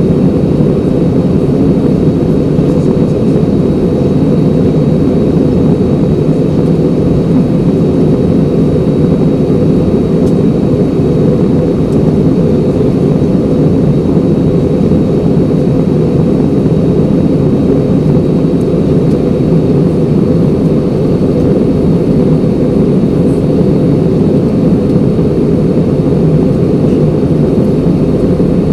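Steady jet airliner cabin noise in flight: engine and rushing-air rumble heard from inside the cabin, even and unbroken, with a faint thin high whine above it.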